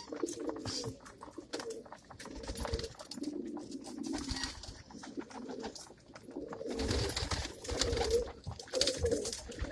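Domestic pigeons in a loft cooing over and over, their low warbling calls overlapping, with scattered light clicks and rustles.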